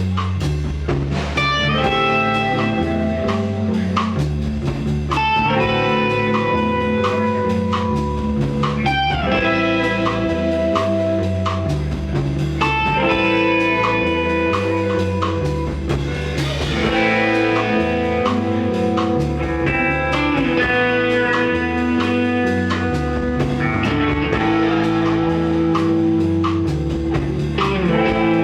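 Live rock band playing an instrumental passage: electric guitar lines over bass and a steady drum-kit beat.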